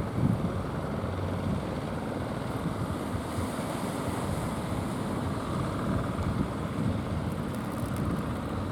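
Strong wind blowing across the microphone in a steady rush, over the wash of sea surf.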